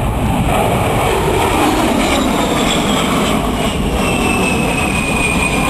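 A US Air Force A-10 Thunderbolt II flying past, its twin TF34 turbofan jet engines giving a loud, steady rush with a high whine that slides slowly down in pitch.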